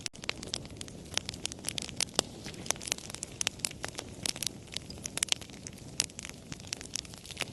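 Wood fire crackling: irregular sharp pops and snaps, several a second, over a soft steady hiss of burning, with a split-second gap right at the start.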